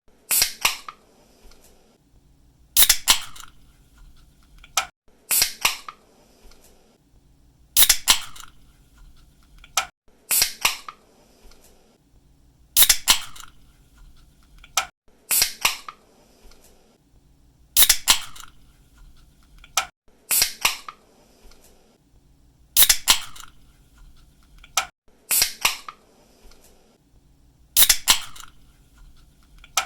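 Aluminium drink can pull-tabs cracking open again and again, roughly every two and a half seconds. Each opening is a sharp pop followed by a short hiss of escaping gas.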